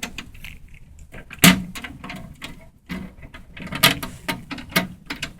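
Plastic toys being handled on a hard surface: a string of clicks and knocks, the loudest about a second and a half in.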